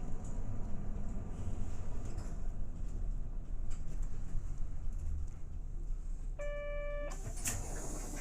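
Inside a Hinomaru Jidosha route bus: steady low engine and road rumble that eases off. About six seconds in comes a single electronic beep lasting under a second, followed by a sharp click and a short hiss.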